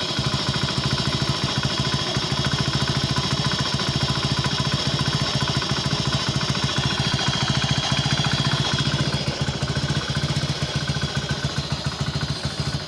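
Hero Passion Plus motorcycle's single-cylinder four-stroke engine running steadily at a slightly raised idle, throttle held at one level so the freshly changed engine oil circulates through the engine.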